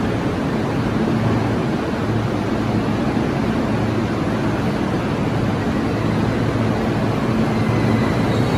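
Sotetsu electric commuter train moving slowly alongside the platform in an underground station: a steady rumble of wheels and motors with a low hum.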